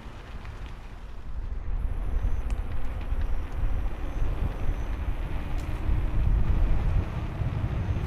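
Wind buffeting the microphone during a ride, a low rumble that grows louder about a second and a half in.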